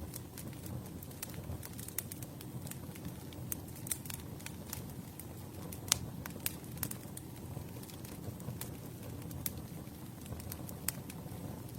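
Campfire burning, a steady low rumble of flames with irregular crackles and pops of burning wood, the sharpest pop about six seconds in.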